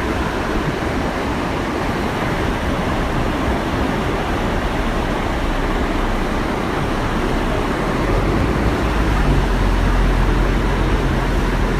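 Waterfall rushing steadily. About eight seconds in, a low steady hum joins it.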